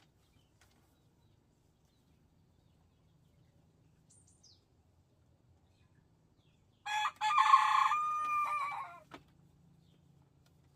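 A rooster crowing once, about seven seconds in, lasting about two seconds: a short opening note, then a long held note that drops off at the end. Otherwise near quiet.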